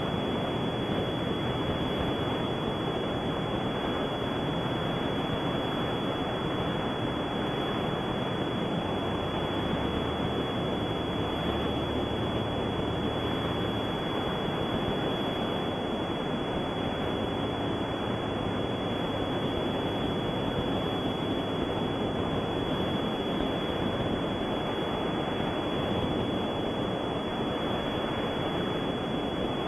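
Steady rushing noise with a faint constant high whine, unchanging throughout.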